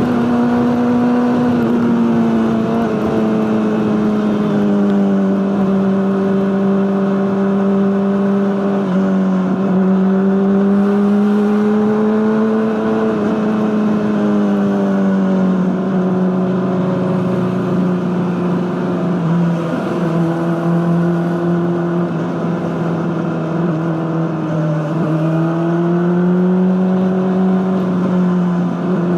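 Honda CBR600RR inline-four engine running through an Akrapovic aftermarket exhaust, held at fairly steady revs with the pitch drifting slowly down and up, with no sharp revs or breaks.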